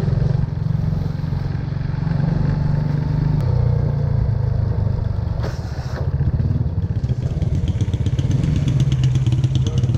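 Motorbike engine running while riding, a steady low pulsing rumble, with a brief rush of noise about five and a half seconds in.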